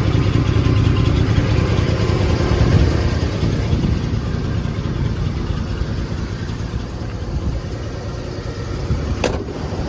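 1986 Ford F-150's engine idling steadily with a low rumble. There is one sharp click near the end.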